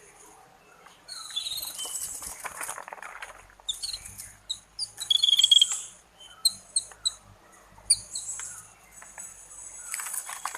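Small birds chirping, a run of short high calls and trills that stop and start, loudest about five seconds in.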